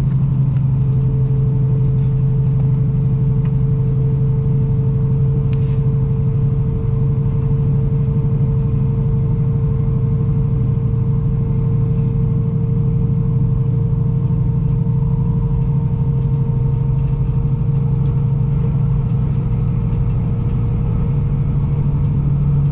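Joetsu Shinkansen train running along the line, heard from inside the passenger car: a steady low rumble with a strong constant hum. A steady higher tone joins about a second in and holds.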